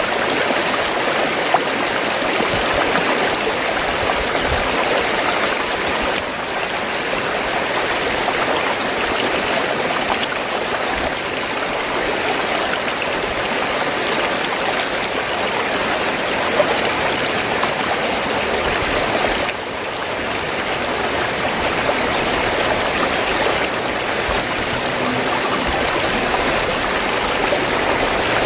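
Fast-flowing stream of water gurgling, a steady rush that dips slightly in level twice.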